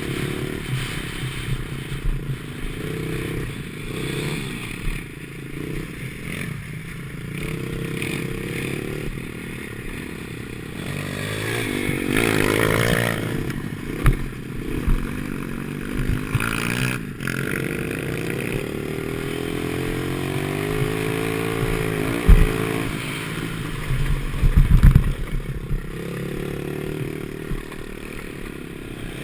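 Ten10 50cc pit bike engine running round a motocross track, its pitch rising and falling as the throttle is opened and closed. A sharp knock comes about two-thirds of the way through, followed shortly by a burst of clattering.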